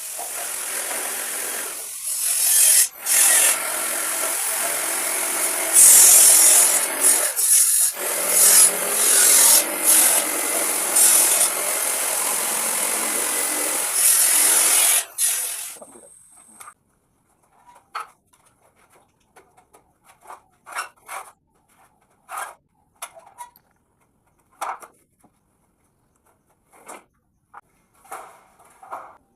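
A power tool cutting through wood for about fifteen seconds, with a few brief pauses, then it stops and only scattered short knocks and clicks of handling follow.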